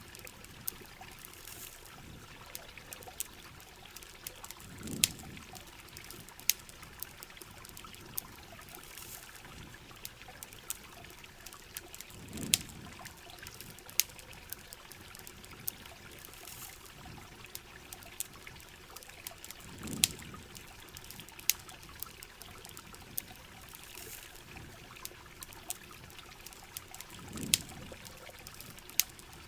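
Rain and campfire ambience: a steady hiss of falling rain and running water, with sharp crackling pops from a burning campfire scattered throughout. A soft low swell rises and fades about every seven and a half seconds.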